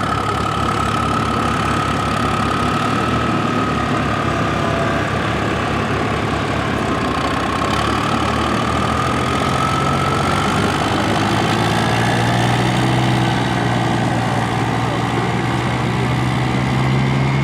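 Dodge pickup's six-cylinder Cummins diesel engine running steadily, with a high whistle over it that dips slightly and then rises. The engine's pitch climbs in the last few seconds.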